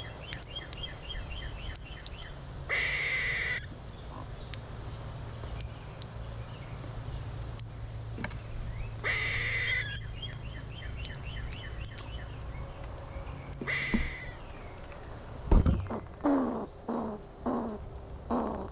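Birds calling around a backyard seed feeder: sharp, high, falling chip notes every second or two, a quick run of repeated notes near the start and again about ten seconds in, and two brief raspy calls. About fifteen seconds in comes a thump, then a run of lower, harsh calls about two a second.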